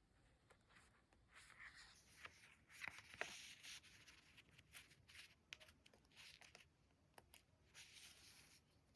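Quiet paper and sticker handling: soft rustling, peeling and scraping, with many small clicks and taps. It is busiest in the middle and again near the end.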